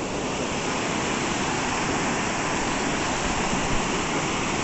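Steady, continuous rush of a small waterfall, water pouring and splashing.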